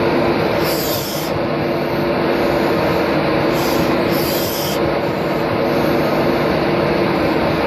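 Class 43 HST (InterCity 125) pulling out, its coaches rolling past with loud, steady running noise and an even engine hum. Two brief high-pitched rasps come from the train, about a second in and again around four seconds.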